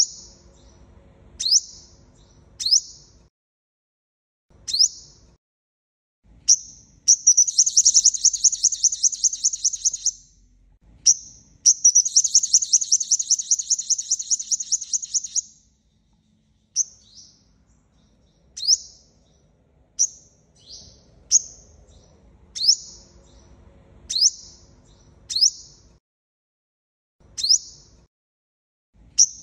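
Sunbird calling: sharp, high single notes, roughly one a second, broken in the middle by two rapid trilled songs a few seconds long. This is a lure recording of a male sunbird of the kind sold in Vietnam as the 'five-colour' sunbird, played to call in wild birds.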